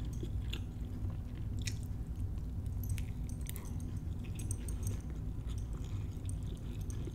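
A person chewing a mouthful of jumbo lump crab cake, with scattered small mouth clicks over a steady low hum.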